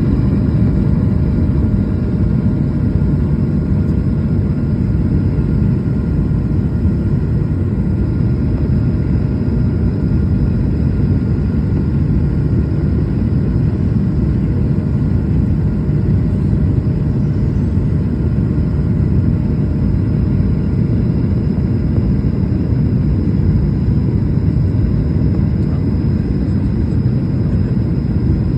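Steady, loud low rumble of an aircraft in flight, with a few faint steady tones above it and no change throughout.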